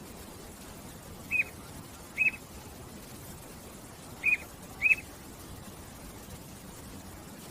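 A songbird chirping: four short, sharp chirps in two pairs, over a steady background hiss.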